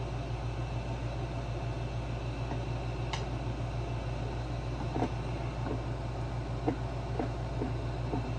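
Steady hum of a room air conditioner, with a few light clicks and taps of hand tools on the generator's parts, the sharpest about three, five and nearly seven seconds in.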